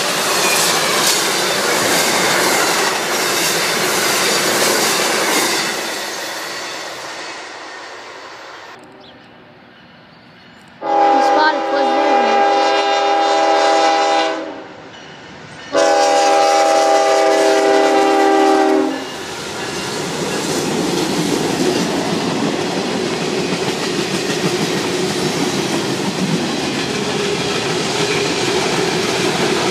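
An Amtrak passenger train's wheels rumbling on the rails, fading as it runs away. Then a freight locomotive's multi-chime air horn sounds two long blasts of about three seconds each. After that, loaded freight hopper cars roll past with a steady clatter of wheels on rail joints.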